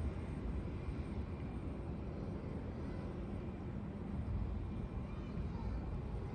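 Airliner engines heard from outside the airfield: a steady low rumble that stays level throughout.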